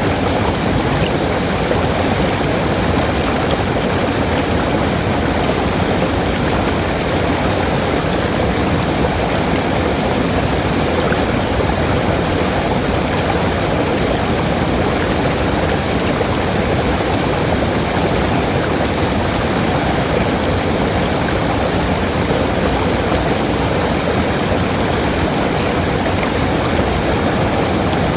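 Waterfall: a loud, steady rush of falling water that holds unchanged throughout.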